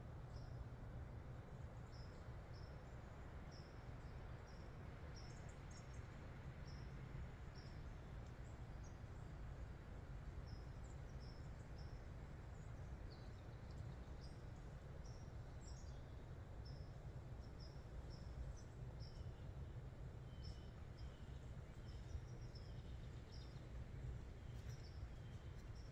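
Small songbirds chirping: short, high chirps repeating every second or so, joined by a second, lower series of chirps about two-thirds of the way in, over a faint steady low rumble.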